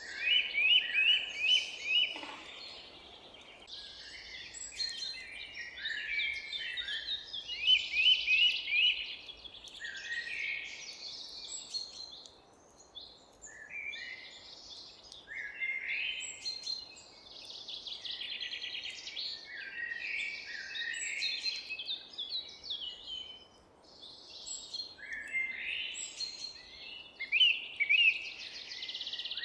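Several songbirds singing at once, rapid runs of repeated chirping notes overlapping one another, over a faint steady background hiss.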